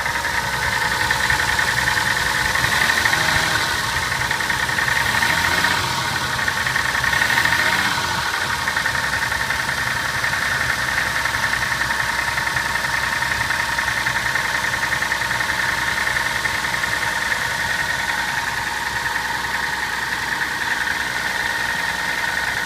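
Toyota Soarer engine running cold with a knocking noise, which the owner thinks may be the big-end bearings. It rises slightly in speed three times in the first eight seconds or so, then settles to a steady idle.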